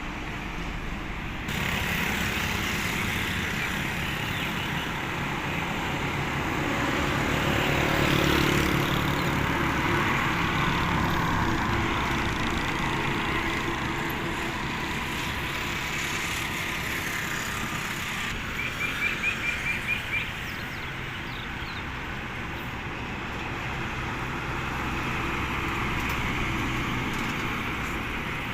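Truck engine running amid road traffic noise, growing louder for a few seconds about a quarter of the way in. About two-thirds through comes a quick string of about seven short, high beeps.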